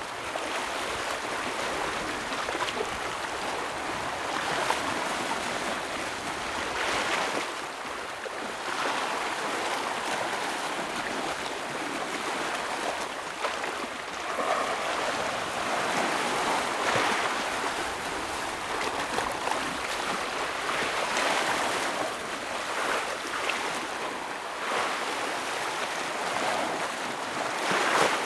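Ocean waves breaking and washing over rocks, a continuous rush of surf that swells every few seconds, loudest near the end.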